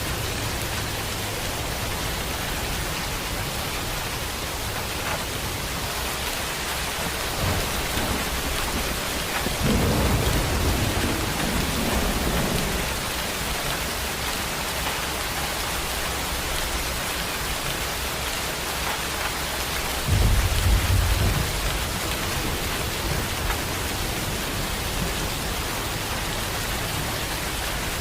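Heavy rain pouring steadily, with rolls of thunder rumbling low over it twice: a longer roll about ten seconds in, and a shorter, louder one about twenty seconds in.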